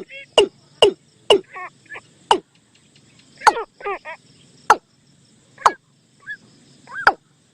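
Bird-lure call recording playing repeated bird calls: sharp, quick notes that drop steeply in pitch, about one or two a second, with short quavering phrases between them.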